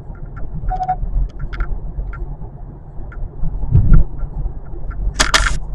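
Interior road noise of a 2025 Kia K4 on the move: a steady low rumble with scattered light clicks and ticks, a heavier thump about four seconds in, and a short burst of hiss near the end.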